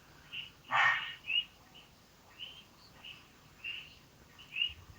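A bird chirping over and over, short high chirps about twice a second. A brief louder rush of noise comes about a second in.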